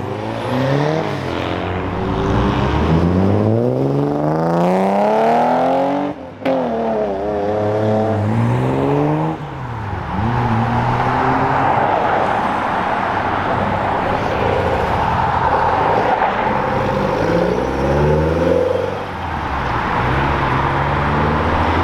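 Car engines revving hard as cars accelerate away, the revs climbing through the gears with a sudden break about six seconds in. From about ten seconds in there is a dense, rough engine noise, with another engine's revs rising near the end.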